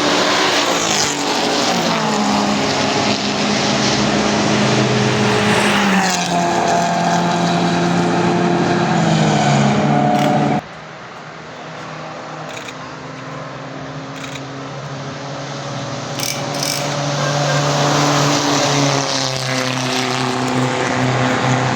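Classic racing car engines running hard, their pitch rising and falling with throttle and gear changes. About halfway through the sound cuts off abruptly, then an engine builds up again, growing louder as it approaches.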